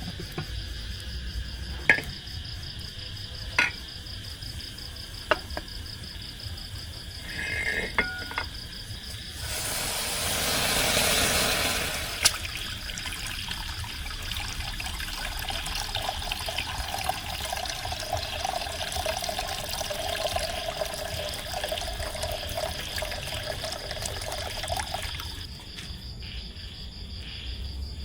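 Water pouring and running into a vessel, starting with a louder splashing rush and going on more steadily for about a dozen seconds before stopping. Before it come a few sharp clicks of kitchenware, and a steady high insect trill runs underneath.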